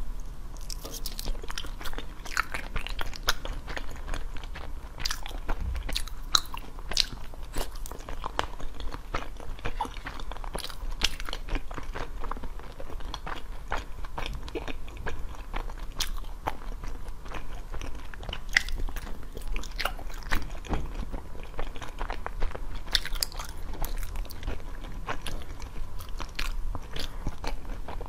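Crunchy biting and chewing of small round red food pieces, a steady run of irregular crackly crunches.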